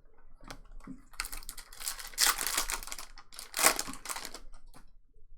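Trading cards being handled and flipped through by hand: quick runs of small clicks and rustling, with two louder spells in the middle.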